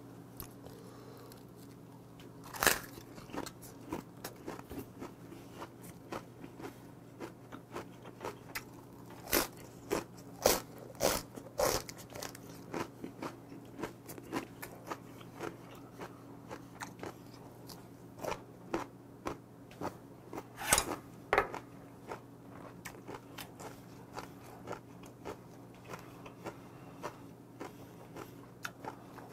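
Close-miked eating: crisp crunching and chewing of a raw napa cabbage wrap, in many sharp bites, loudest about 3 seconds in, again around 10 to 12 seconds and near 21 seconds. A low steady hum runs underneath.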